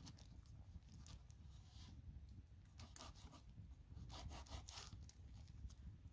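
Faint rustling and scraping handling noises in a few short bursts, the longest about four seconds in, over a low steady rumble.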